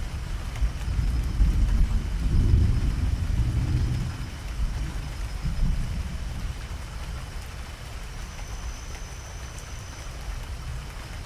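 Thunderstorm: steady rain with a low rolling rumble of thunder that swells in the first few seconds, then dies away to the rain alone.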